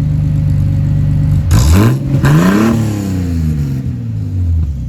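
Ford AU Falcon's 4.0-litre inline-six idling through a new custom muffler and side-exit exhaust. It is revved once about a second and a half in: the pitch climbs sharply and loudly, then falls slowly back to a steady idle near the end.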